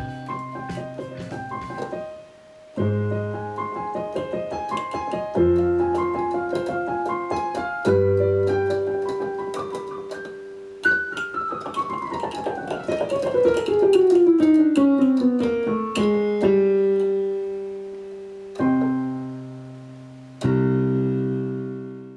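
Electronic keyboard music: electric-piano-style chords and melody notes, with a long falling pitch sweep about halfway through, ending on held chords that fade out.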